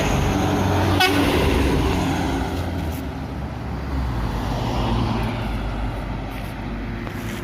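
Truck diesel engine running steadily, with one short horn toot about a second in.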